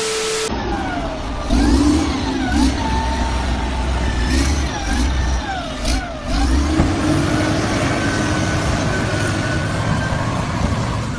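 A vehicle engine revving, its pitch rising and falling in repeated quick swoops over a steady low rumble, then holding steadier near the end.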